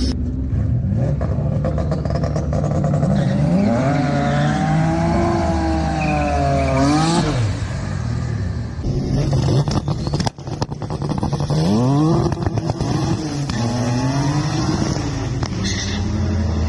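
Twin-engine, twin-turbo Mazda MX-3 revving hard while spinning its tyres in a burnout, the engine pitch climbing and falling several times. After an abrupt break about ten seconds in, the engines climb through the revs again in repeated rises and drops as the car runs down the drag strip.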